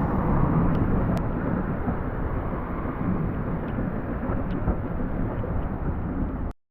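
Heritage steam train carriage running on the rails, a steady low rumble with a few faint clicks, cutting off suddenly near the end.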